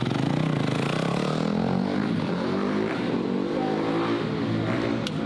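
Several mini bike engines running at once, their overlapping notes rising and falling as they rev.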